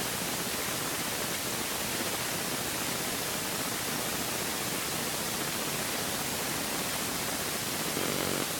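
Steady, even hiss with no bangs or other distinct events.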